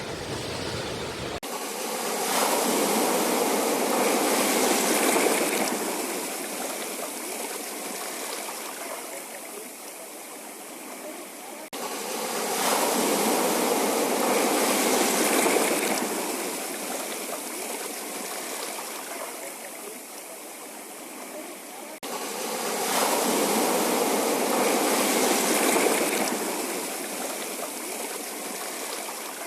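Sea waves washing onto a rocky shore, surging and easing off in three swells about ten seconds apart.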